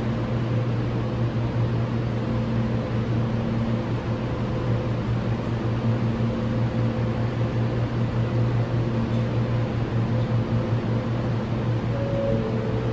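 New York City subway car running between stations, heard from inside the car: a steady low rumble with a faint hum of the motors.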